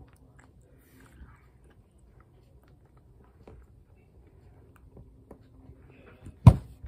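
Faint chewing of gummy candy with small scattered clicks, then one loud thump near the end.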